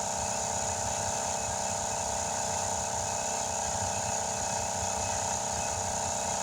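A motor running at a constant speed, a steady droning hum that does not change.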